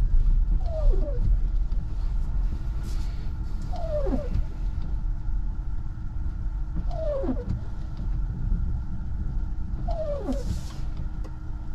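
Steady low road and tyre rumble inside a Tesla Model 3 driving on a snowy road, with a short falling squeak about every three seconds, four in all: the windshield wipers dragging across the glass as they clear falling snow.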